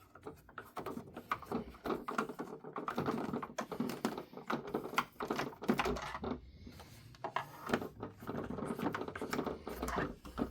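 A screwdriver working the screws of a plastic toy car: a busy, irregular run of small clicks, taps and scrapes as the tool and the plastic body are handled.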